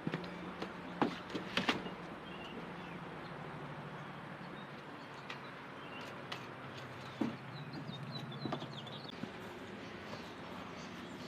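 Faint wild songbird chirps, a few short high calls at a time, over a steady low hum. A few soft knocks and rustles are heard, the clearest about seven seconds in.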